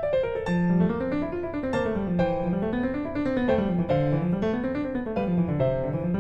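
Background piano music: quick broken-chord runs that rise and fall over and over at a steady, flowing pace.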